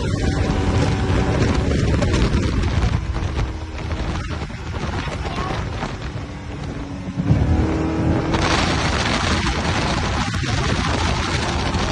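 Powerboat engines running hard with wind and water noise. About seven seconds in, the engine rumble surges loudly, and a second later a strong rushing hiss of wind and spray joins it.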